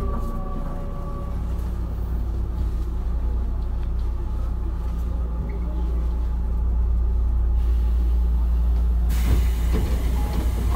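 Tobu 9050 series electric commuter train running, heard from inside a motor car: a steady low rumble from the wheels on the rails. A thin whine stops about a second in, and a hiss joins near the end.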